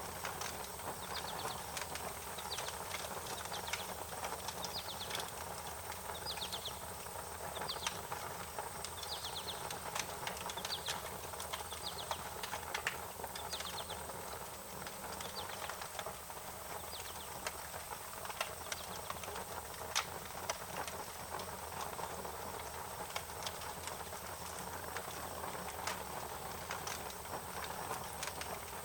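Wood fire crackling: a steady hiss with irregular sharp pops and snaps. Birds give short rapid trills several times in the first half.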